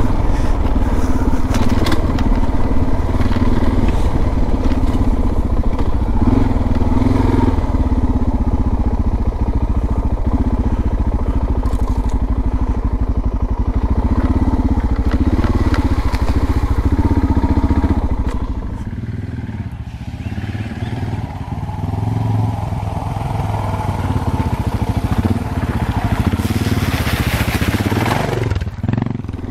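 A Suzuki DR650's single-cylinder four-stroke engine running as the dual-sport bike is ridden along a dirt track. About two-thirds of the way through the engine note drops for a few seconds as the rider eases off, then picks up again.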